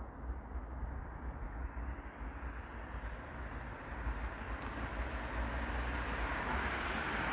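Mercedes-Benz C300 4Matic on its stock exhaust: a steady low rumble with a rushing noise that grows louder and brighter from about three seconds in.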